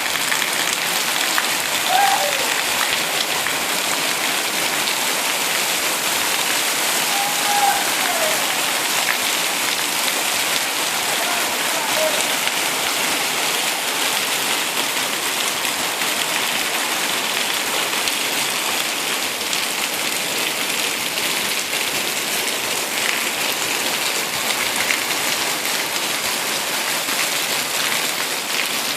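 Heavy tropical rain falling steadily, an even continuous hiss, with a few brief faint calls in the first dozen seconds.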